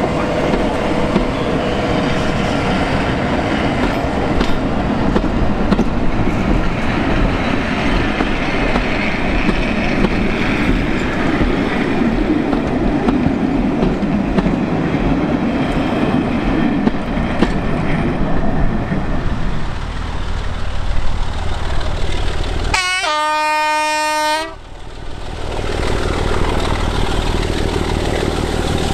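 Passenger coaches running past close by with steady wheel and rail noise. About three-quarters of the way in, a diesel locomotive's horn sounds one note for under two seconds. After it comes the low, steady running of the approaching Class 25 diesel locomotive's engine.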